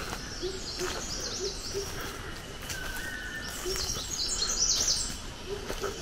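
Several wild birds calling: two bouts of quick, high chirps, one about a second in and a louder one near the end, a short whistle near the middle, and a string of low, soft hoots repeated every half second or so.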